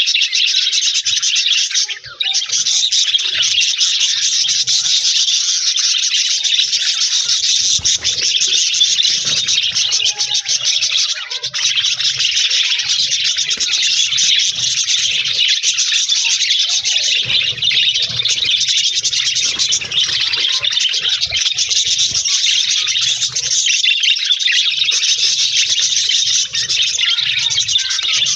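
Flock of budgerigars chattering and chirping together, a dense continuous twitter of many birds at once with only a brief lull about two seconds in.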